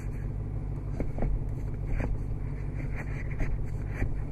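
Supercharged 6.2-litre Hemi V8 idling steadily, heard from inside the cabin, with a few light clicks about 1, 2 and 4 seconds in.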